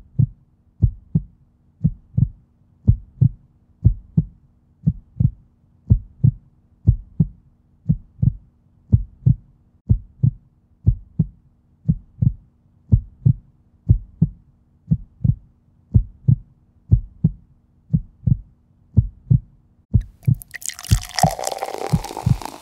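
Heartbeat-like double thumps, lub-dub about once a second, over a faint low steady hum. About 20 seconds in, a rising noisy swell joins them.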